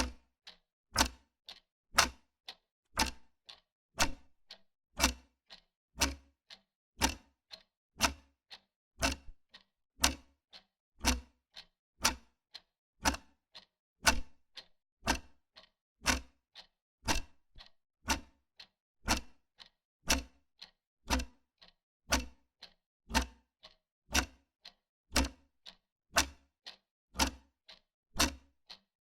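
Wall clock ticking steadily, about two ticks a second, alternating a louder tick with a softer tock.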